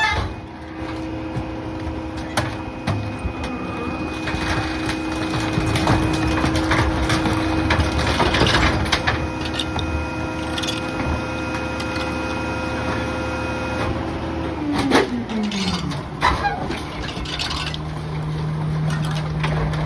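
Garbage truck's engine and packer hydraulics running at raised revs with a steady whine, with scattered knocks and clatter of debris. About fifteen seconds in the revs fall away in a downward glide and settle to a lower steady hum.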